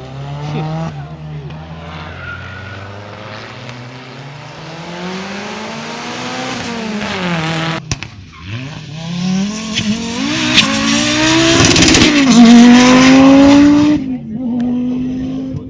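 Rally car engines at full throttle on a stage, rising and falling in pitch through the gears. There is a sudden break about eight seconds in. After it a louder car revs up hard and holds high before fading away near the end.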